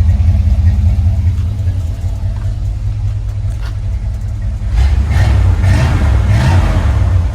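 Car engine running through a newly installed exhaust with a deep rumble. The rumble eases after about two seconds, then swells as the engine is revved in the second half.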